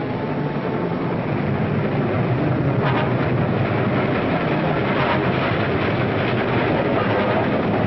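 Moving train running along the track: a steady rumble of wheels on rails with a few faint clicks, swelling slightly at first.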